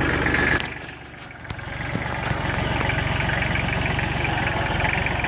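Tractor engine running, dropping out about half a second in and building back up a second later, then running steadily at idle.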